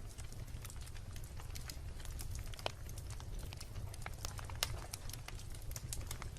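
Wood fire crackling, with irregular sharp pops and snaps over a low, steady rumble of burning; two louder pops come about a third and two-thirds of the way through.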